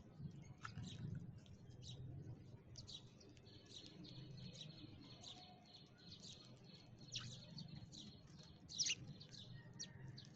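Sparrows chirping in many short, quick chirps, with a faint steady high tone running through the middle.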